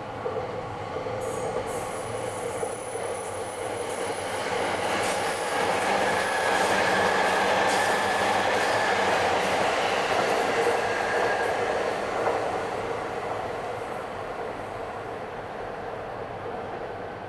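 JR East E259 series Narita Express electric train passing on curved track. It grows louder, peaks and fades as it goes by. High-pitched wheel squeal sounds over the first half, above the rumble of the wheels on the rails.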